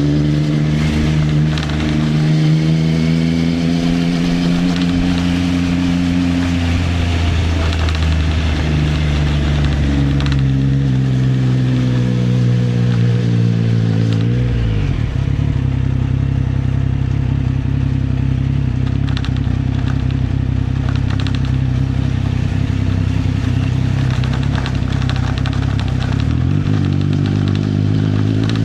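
Triumph Trident 660 three-cylinder engine through an Arrow exhaust, riding under way: the engine note sags slowly, climbs again, drops sharply about halfway through as the revs fall, holds steady for a long stretch, then starts to climb again near the end.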